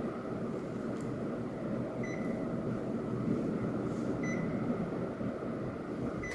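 Panasonic CS-YN12WKJ split air conditioner's indoor unit running with a steady rush of airflow, with three short high beeps about two seconds apart.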